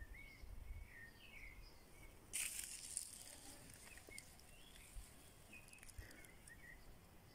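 Faint garden ambience with small birds chirping in short, scattered calls. A brief rustling burst comes about two and a half seconds in.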